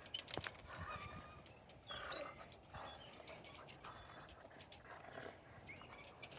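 Dogs making a few faint whimpering sounds amid scattered short clicks and scuffles.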